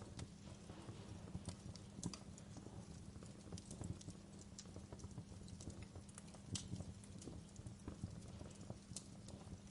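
Wood fire crackling in a fireplace: irregular sharp pops and snaps, a few louder ones, over a low steady background.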